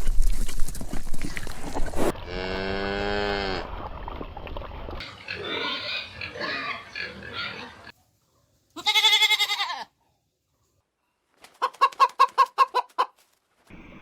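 A run of short farm-animal clips: noisy grunting at first, then a drawn-out pitched call, more grunting, a short high call, and a fast pulsing call near the end, with silent gaps between clips.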